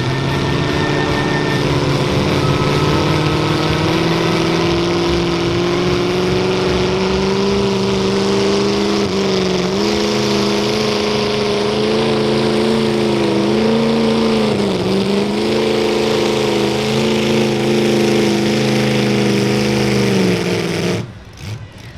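Mini modified pulling tractor's engine running hard through a pull. Its pitch climbs over the first several seconds, wavers with a few brief dips, then cuts off suddenly about twenty seconds in.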